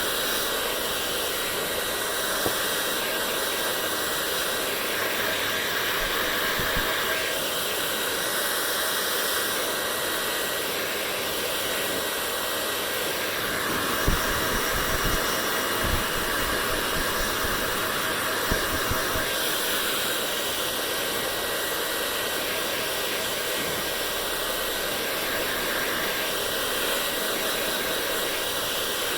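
Hair dryer running steadily: an even rush of blown air with a faint, thin motor whine. A few short low bumps sound about halfway through.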